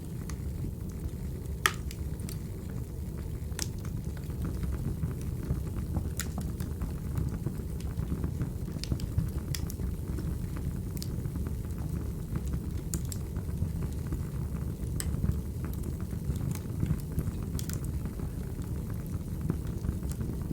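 Firewood burning: a steady low roar with sharp, irregular crackles and pops, about one every second or so.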